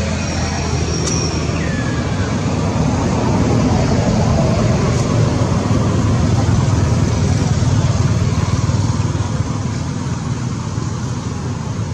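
Motor vehicle engine running, a steady low rumble throughout.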